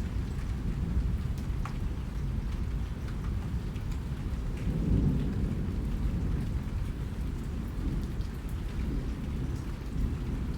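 Steady rain with scattered drops ticking and a deep rumble underneath that swells about halfway through.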